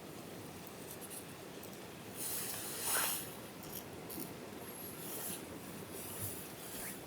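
Light scratching and rubbing of something being handled, with a louder swishing rub about two seconds in and a few small clicks.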